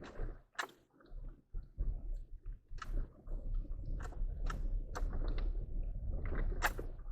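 Low rumble of a vehicle driving a rough dirt road, heard from inside, with frequent irregular clicks and knocks of things rattling in the cab.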